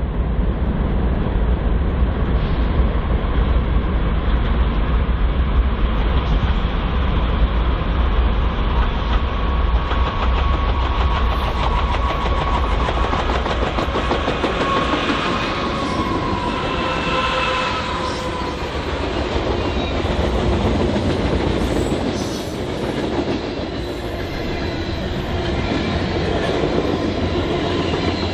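BNSF freight train cars rolling past: a steady rumble with the wheels clattering rapidly over the rails, and a faint high squeal a little past halfway.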